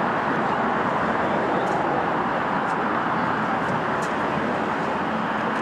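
Class 331 electric multiple unit running into a station platform: a steady rumble of wheels and traction motors at an even level, with a few faint clicks from the wheels on the rails.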